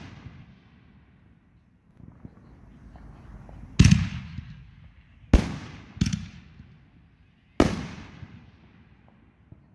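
Aerial firework shells bursting overhead: four sharp booms, each with a fading echo, about four, five and a half, six and seven and a half seconds in. Quieter launch sounds come between them.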